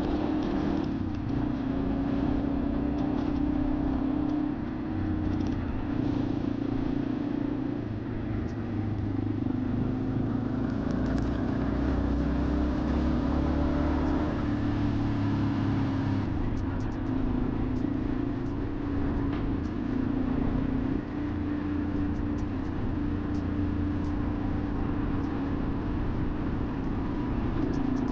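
Motorcycle engine running steadily while being ridden, its drone rising and falling slightly with the throttle, over road and wind noise.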